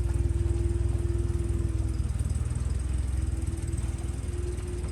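Small outboard motor on a dinghy running steadily, a fast low putter with a held hum, easing off slightly toward the end.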